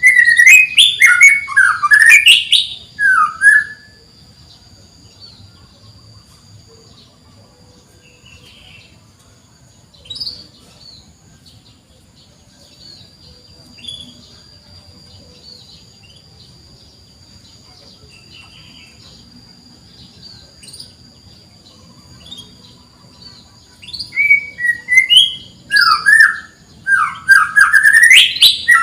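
Domestic canary singing in loud bursts of quick sweeping 'cuit cuit' chirps, at the start and again for the last few seconds, with only a few faint chirps in the long quiet stretch between.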